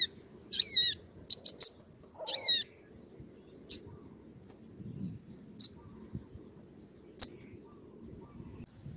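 Sunbird (sogon) calling: sharp, high-pitched notes and two brief falling trills in the first three seconds, then single sharp chips every second or two.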